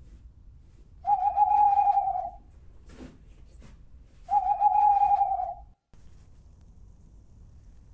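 An owl hooting: two long, level hoots, each over a second long and about three seconds apart.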